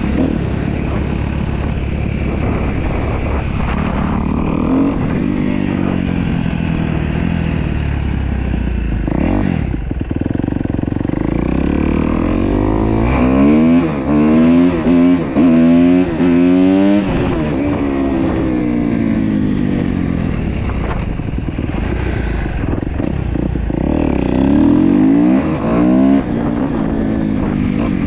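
A 2015 Kawasaki KX250F's fuel-injected single-cylinder four-stroke engine being ridden, its revs climbing and dropping again and again, hardest in the middle and near the end. It runs and pulls cleanly now that its tight intake valves have had their clearance reset.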